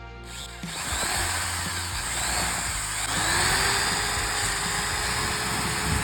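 A power tool running steadily, noisy and loud, over background music. It starts about a third of a second in.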